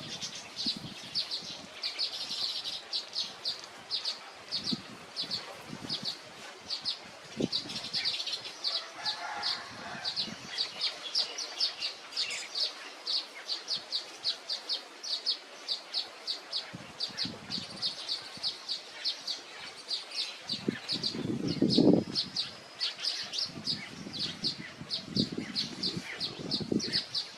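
A warbler chirping: short, high, rapid chips, about three a second, kept up without a break. Low rustles and thumps come and go, the loudest about three quarters of the way through.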